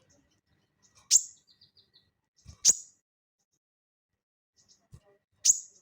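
Sogon songbird giving three loud, sharp, high calls, each a piercing note dropping in pitch, about a second and a half to three seconds apart, with soft quick ticking notes in between. Two faint low thumps sound just before the second and third calls.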